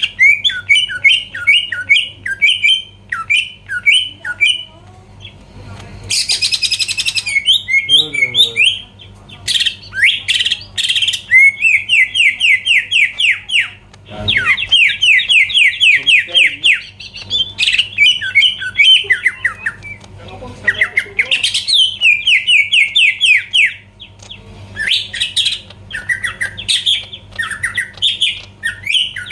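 Cucak ijo (greater green leafbird) in full song: fast, loud runs of repeated chattering notes with brief pauses, and a harsh rasping call about six seconds in. A faint steady electrical hum sits underneath.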